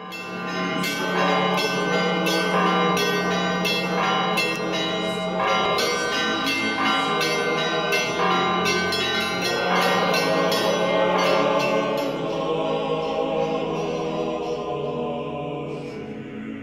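Church bells ringing: quick, uneven strikes on several bells over a steady low hum. The strikes stop about twelve seconds in and the bells ring out and fade.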